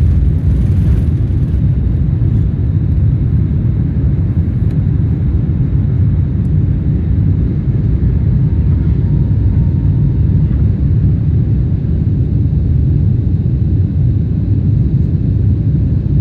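Boeing 747-8i cabin noise during takeoff: a loud, steady, deep rumble from its four GEnx engines and the airflow, heard from inside the passenger cabin.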